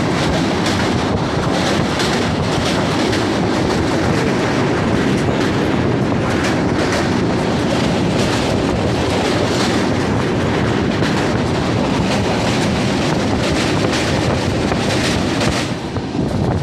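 MEMU local passenger train running at speed over a steel truss bridge: a loud steady rumble of wheels on rails with a dense, rapid clatter running through it. The sound eases slightly near the end.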